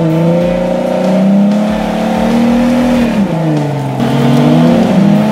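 Modified Jeep Wrangler's engine revving under load as it climbs a muddy off-road track. The pitch rises and falls with the throttle, sagging after about three seconds and picking up again a second later.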